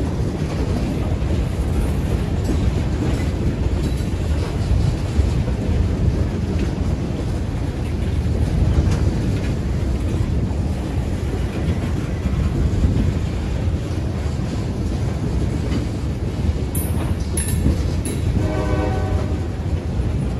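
Diesel freight train running with a steady low rumble; a short horn blast sounds near the end.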